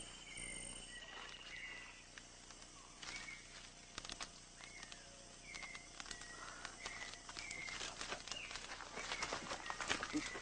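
Rainforest ambience: a bird repeats a short, down-slurred call about once a second. An insect's pulsing trill runs for the first couple of seconds, and scattered sharp clicks thicken near the end.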